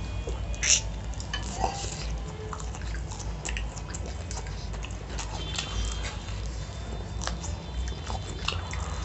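A bite into crispy KFC-style fried chicken, with a loud crunch just under a second in, then chewing with scattered crisp crackles, over a steady low hum.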